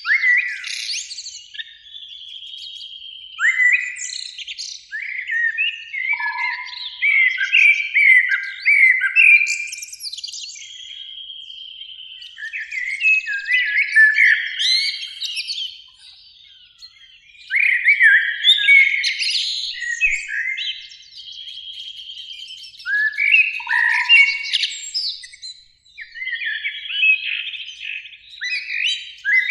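Eurasian blackbird song: varied fluting phrases with high twittering, some notes gliding and some held as steady whistles, delivered in bursts with short pauses.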